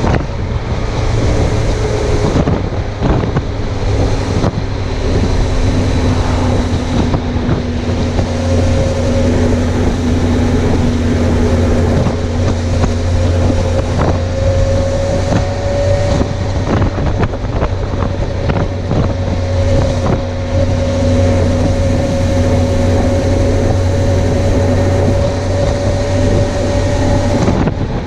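Suzuki GSX750F's inline-four engine running at a steady cruise, its pitch creeping slowly up over much of the stretch, with wind rushing over the microphone.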